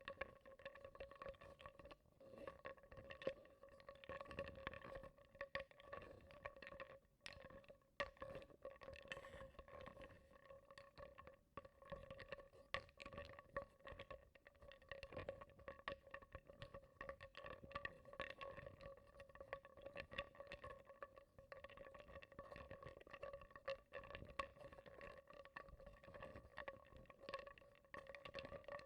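Wooden blocks stirred in a bowl of water, with quiet, irregular small knocks and clicks of wood against wood and bowl amid soft water sloshing. A faint steady hum runs underneath.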